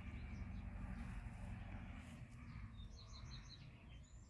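Quiet outdoor ambience with a steady low rumble and a small bird chirping: a quick run of four short high chirps about three seconds in.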